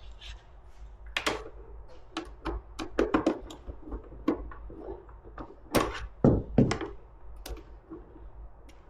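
Irregular clicks, taps and knocks of hand tools and bolts against the plastic bodywork of a Razor MX650 electric dirt bike being taken apart.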